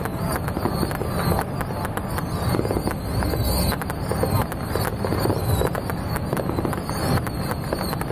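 Fireworks crackling: many sharp pops in quick, irregular succession over a steady low rumble.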